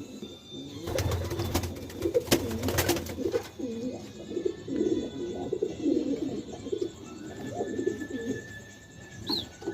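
Domestic pigeons cooing in low, wavering calls, with a flurry of rustling clicks in the first few seconds and a short high chirp near the end.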